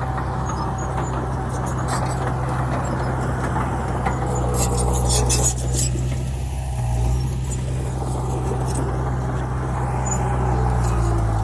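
Heavy diesel earthmoving machine engine running steadily, with a spell of sharp metallic clicks and rattles about halfway through and a slight shift in the engine note a little later.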